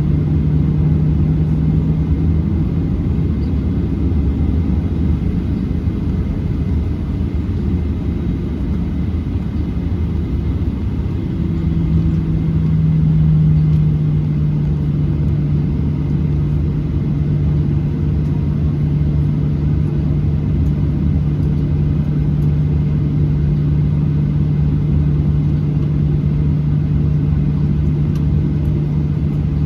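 Inside the cabin of a Boeing 737-800: its CFM56-7B engines and the airflow make a steady loud rumble with a low hum. The hum fades for several seconds and comes back about eleven seconds in, when the sound briefly grows louder.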